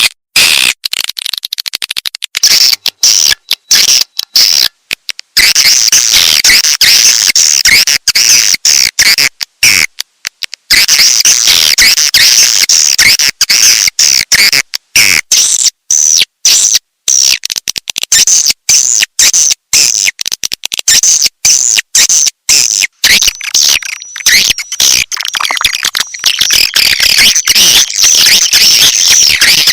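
Swiftlet calling-sound recording: dense, high twittering chirps from many birds at once, chopped by frequent abrupt short dropouts.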